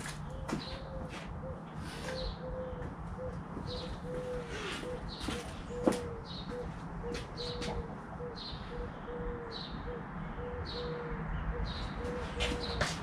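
A bird chirping over and over in short, evenly spaced calls, with a faint broken whine running underneath. A couple of sharp clicks stand out, the loudest about six seconds in.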